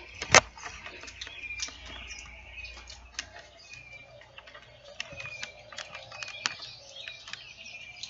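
Birds chirping in short, scattered notes, with one sharp click less than half a second in.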